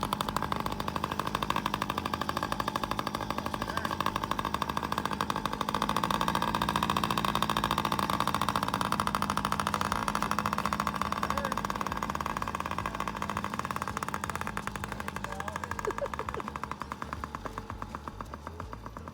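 Small Yamaha 50cc youth dirt bike engine running, a rapid, even stream of firing pulses, fading over the last few seconds as the bike moves away.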